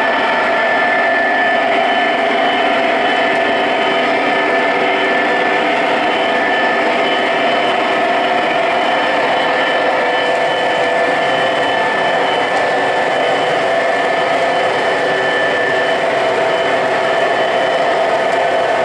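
O gauge model train running on three-rail track: a steady whir of its electric motors and wheels on the rails, with a thin high whine held throughout.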